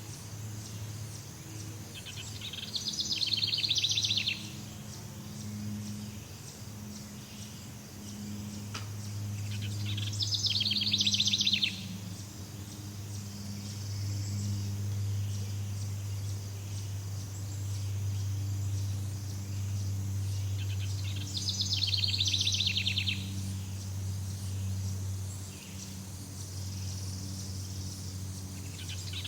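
Jungle ambience: a rapid pulsed trilling call, high in pitch and lasting a second or two, repeats three times against a steady low drone and a faint high hiss.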